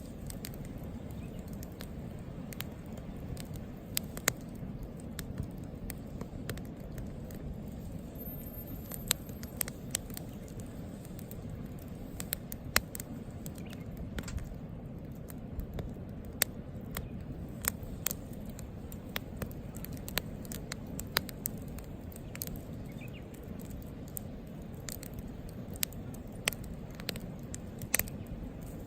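Wood campfire crackling, with irregular sharp pops and snaps over a steady low rush of burning flames.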